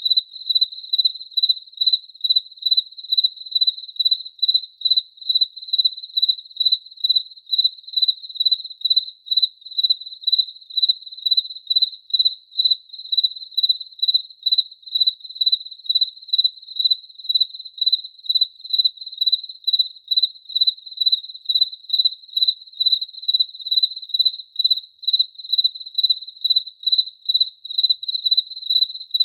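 Cricket chirping in a steady, even rhythm, about two and a half chirps a second, all at one high pitch.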